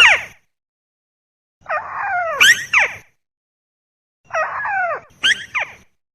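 Lure recording of a tikusan crake calling: a call tails off at the start, then two harsh calls follow, each about a second and a half long and made of several quick, sharply falling notes, with silence between them.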